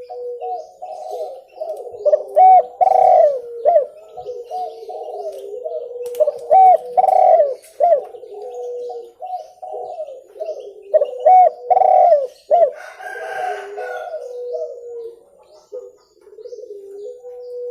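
Spotted doves cooing, several calls overlapping in a continuous chorus of repeated coo phrases. A louder, nearer phrase comes three times, a few seconds apart, with faint chirps from small birds above.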